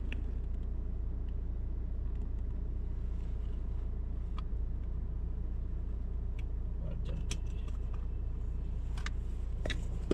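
Steady low rumble of a car's engine and road noise heard from inside the cabin while driving, with a few faint scattered clicks.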